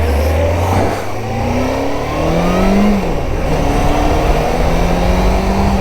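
Suzuki GSX600F's inline-four engine pulling away. The revs climb, drop sharply about three seconds in as a gear changes, then climb again and hold steady. The engine is running without spluttering, and the rider judges that it sounds okay.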